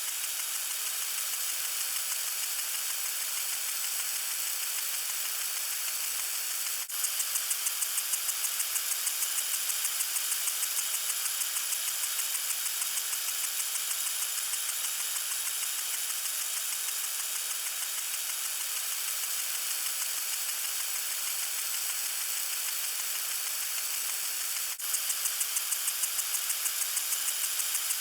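Water sprinkler spraying with a steady hiss. About seven seconds in, and again near the end, a brief break is followed by a fast, even pulsing of the spray that fades over several seconds.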